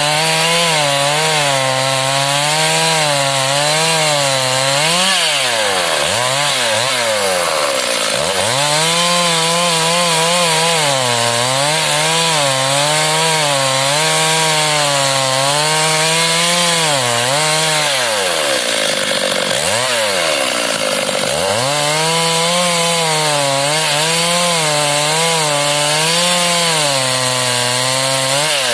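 Stihl MS 382 two-stroke chainsaw cutting wood to make lumber, its engine pitch rising and falling about once a second as the load on the chain changes. Twice the engine speed drops sharply and then climbs back.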